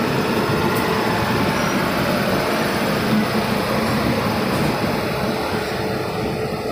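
Steady running noise of a moving passenger express train, heard from an open coach doorway: wheels on the rails with a steady hum running through it.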